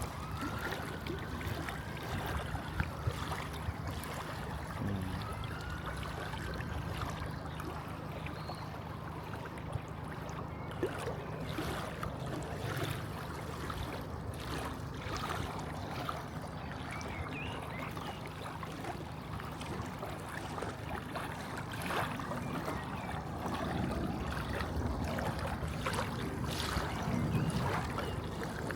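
Lakeside outdoor ambience: a steady low rumble with scattered light clicks, and two faint rising-then-falling calls in the first few seconds.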